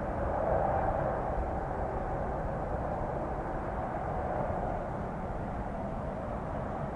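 Jet airliner engines heard from a distance as a steady rushing roar, slowly fading.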